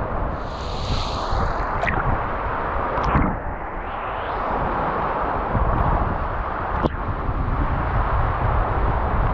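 Wind buffeting the action-camera microphone, a steady low rumbling rush, with a few sharp clicks about two, three and seven seconds in.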